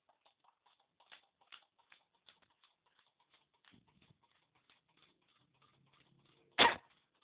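Homemade soda-can Stirling engine running, its coat-hanger crankshaft and linkage clicking rapidly at about four to five light ticks a second. A single loud knock comes near the end.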